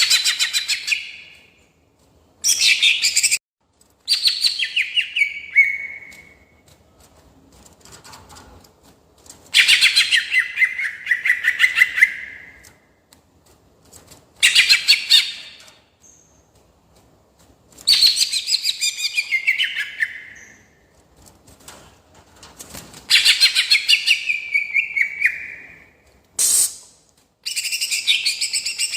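Cucak ijo (green leafbird) singing: a string of rapid, rolling phrases of fast-repeated high notes, each one to three seconds long with short pauses between. Several phrases end in a falling slur.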